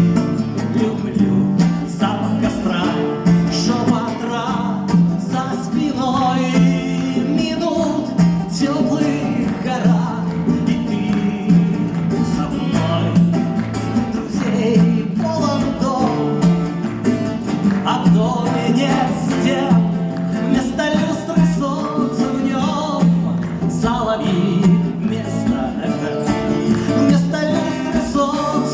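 Live acoustic guitar music: guitars strumming and picking a song's accompaniment with a steady beat and a melody line over it.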